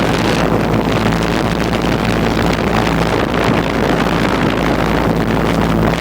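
Outdoor air-conditioner condenser unit running, a steady fan rush over a low compressor hum, with wind buffeting the microphone.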